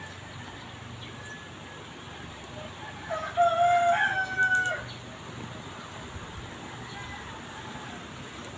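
A rooster crows once, about three seconds in, a single call of nearly two seconds that rises and then holds, over a steady background hiss.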